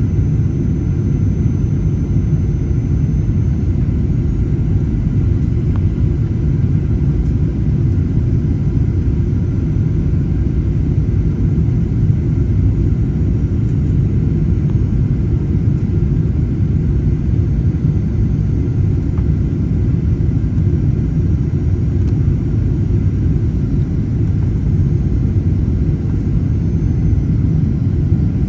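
Boeing 737-800 cabin noise: a steady, loud, low rumble of engines and airflow.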